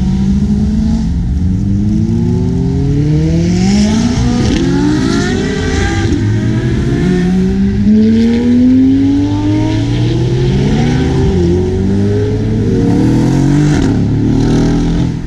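Several supercar engines revving and accelerating, with repeated overlapping rising and falling pitch sweeps.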